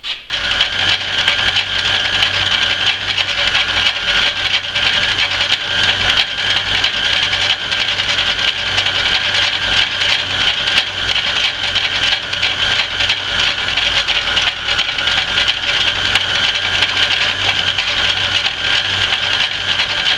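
Antique Rockford lathe running steadily with a steady whine, as a boring bar takes a spring cut: a repeat pass at the same setting that removes almost no metal.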